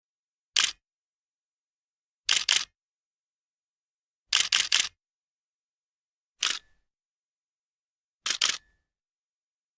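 Short groups of sharp, camera-shutter-like clicks, one to four at a time, about every two seconds, with dead silence between the groups.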